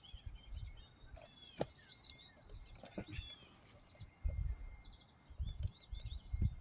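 Small birds chirping and twittering in quick, high, overlapping calls, with a few low rumbles on the microphone about two thirds of the way through and near the end.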